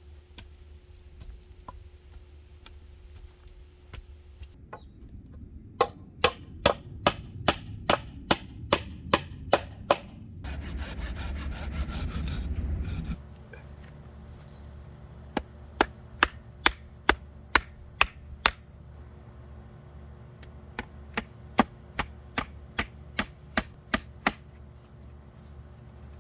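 Hammer blows, about three a second, in three runs of roughly a dozen strokes each, some with a faint metallic ring. Between the first and second run comes about three seconds of loud, steady rushing noise.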